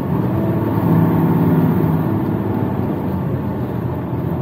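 Semi-truck engine and road noise heard inside the cab while driving: a steady drone with a few held low engine tones.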